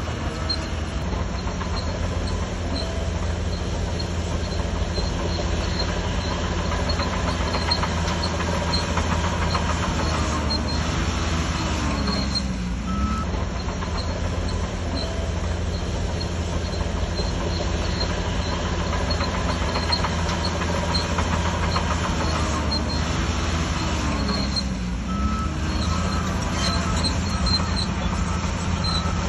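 Crawler bulldozer's diesel engine running steadily under load, with the steel tracks clanking. The engine pitch dips and climbs back briefly twice, about halfway through and again near the end.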